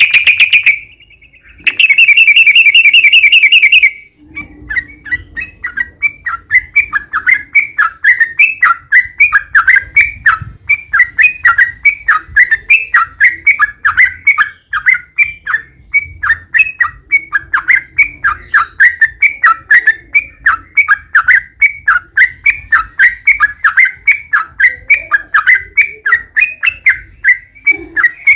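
Yellow-vented bulbul (trucukan) singing a long, rapid 'ropel' run. It opens with two loud fast trills, then goes into an unbroken chatter of short falling notes, about five a second.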